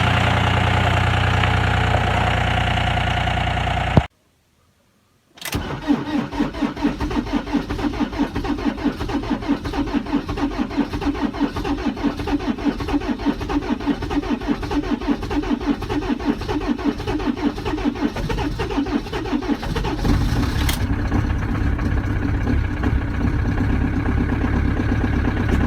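A diesel engine running, then after a brief cut a cold diesel turning over on its starter in fast, even pulses for about fifteen seconds. It catches about twenty seconds in and keeps running: a hard cold start in deep frost.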